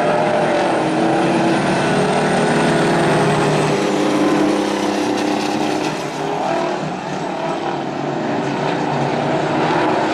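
Several big-rig semi trucks' diesel engines running hard together as they race around a dirt oval, the sound easing slightly about two-thirds of the way through.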